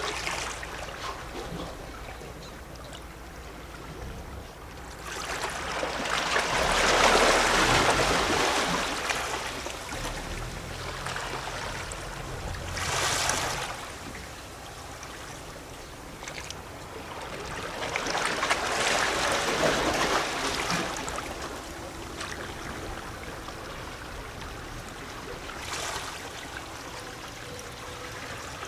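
Small sea waves lapping and sloshing against shoreline rocks, with gurgling and splashing water. Two larger waves wash in, one about five seconds in and another past the middle, with a short splash between them and a small one near the end.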